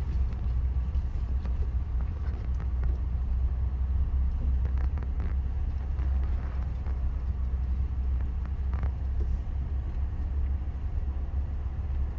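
Truck rumbling steadily as it is driven slowly along a wet dirt road, heard from inside the cab, with a few faint knocks from the bumpy road.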